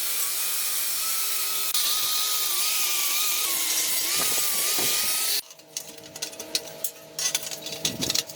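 A power tool running steadily with a hissing noise and a wavering whine, stopping abruptly about five seconds in, then quieter scattered clicks and taps.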